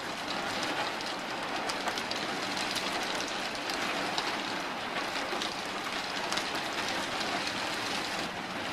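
Heavy rain falling steadily: an even hiss made of many fine drop ticks, with no thunder rumble standing out.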